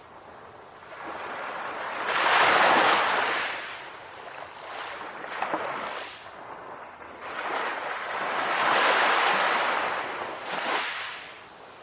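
Ocean waves breaking on a shore: two surges of surf, about six seconds apart, each swelling up and fading away.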